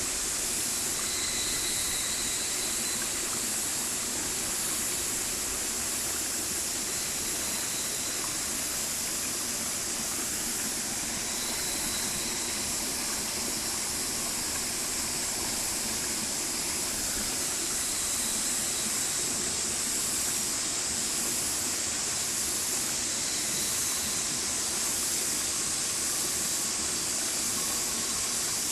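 Stream water rushing in a steady, unbroken hiss.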